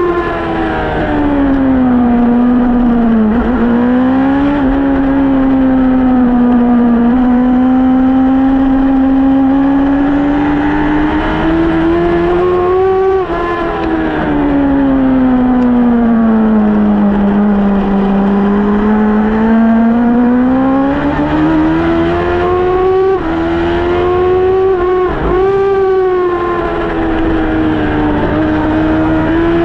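Suzuki GSX-R1000 inline-four engine running hard around a track, its pitch slowly rising and falling as speed builds and drops, with a few brief breaks in the note at gear shifts.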